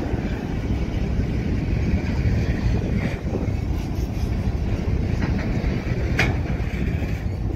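Covered hopper cars of a slow BNSF grain train rolling past, a steady rumble of wheels on rail with a few short metallic clicks, the sharpest about six seconds in.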